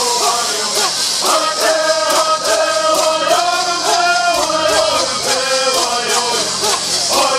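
Men singing a Southern California Native bird song together, with gourd rattles shaken in a steady rhythm.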